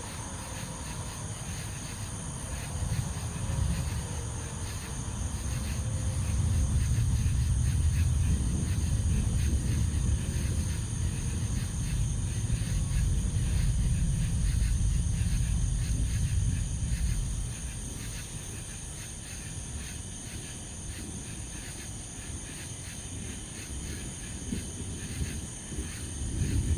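Rolling thunder from a distant positive lightning bolt: a deep rumble that builds over the first few seconds, peaks around the middle and dies away, with crickets chirping steadily throughout.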